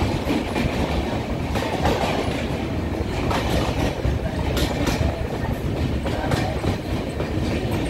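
Passenger train running along the track, heard from inside the coach: a steady rumble with a few sharp clacks of the wheels over rail joints.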